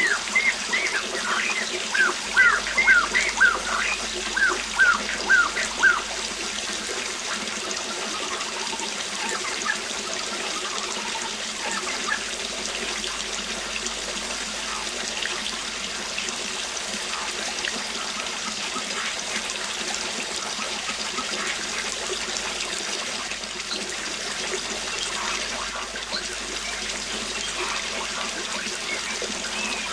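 Steady rush of falling water from a waterfall, with a bird singing a run of short repeated notes over the first six seconds or so, then only a few faint calls.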